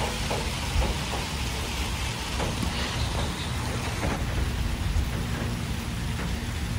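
Steady rain falling, a constant hiss with scattered drops pattering and a low rumble underneath.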